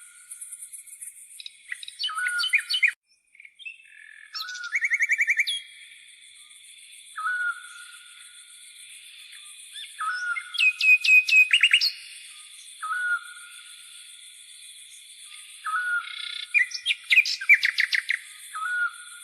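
Birds calling: a short note repeated every few seconds, with bursts of rapid chirps and trills. Under them runs a steady high-pitched buzz of insects, such as grasshoppers.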